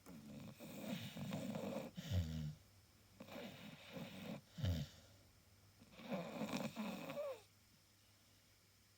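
Staffordshire bull terrier snoring in its sleep: three snoring breaths a couple of seconds apart, the first two ending in a short low snort, then a quiet pause near the end.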